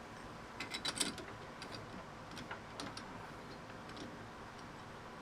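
Light metallic clicks and taps from metal parts being handled. A quick cluster of them, some with a short ring, comes about a second in, followed by a few faint scattered ticks.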